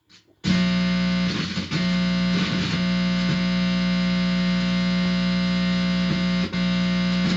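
Guitar amplifier giving out a loud, steady electrical buzz with many overtones, from a lead touched against the head. It starts about half a second in and dips briefly twice. The owner takes the buzz for directed-energy radio-frequency beams striking his body.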